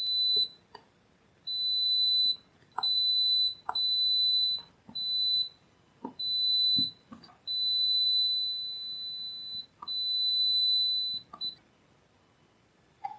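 Electronic beeper sounding one high steady tone in about nine irregular beeps, some brief and some held for a second or two, with small clicks between them.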